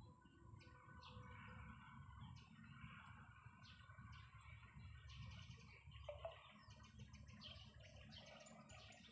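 Faint bird chirps over a low rumble, the chirps coming thicker in the second half.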